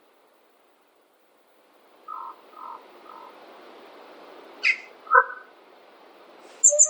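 Forest birds calling: three short calls about two seconds in, a quick high chirp, a louder call about five seconds in, and high falling chirps near the end, over a faint steady hiss.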